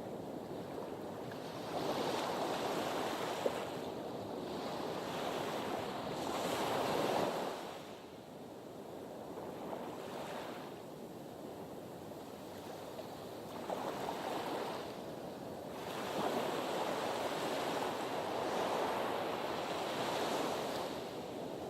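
Sea waves surging against a harbour breakwater, the wash swelling and ebbing: one long surge in the first third and another near the end, with quieter lulls between. A single short tick about three and a half seconds in.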